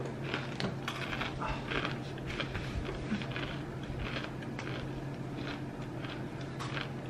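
Crunchy chewing of chakri, a fried rice-flour snack, heard as a run of small irregular crackles over a steady low hum.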